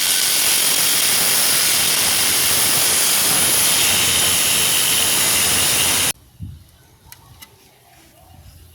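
A power tool cutting through a steel exhaust pipe: a loud, steady hissing whine that stops abruptly about six seconds in, leaving a few faint clicks.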